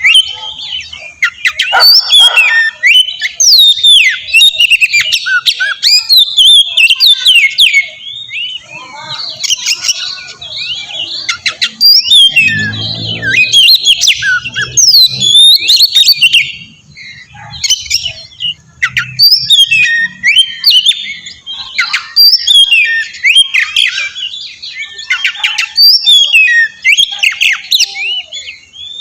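Oriental magpie-robin (kacer) singing a loud, varied song of quick whistles, glides and harsh scratchy notes. It is used as a bait call to provoke other magpie-robins into singing. The song pauses briefly about seventeen seconds in.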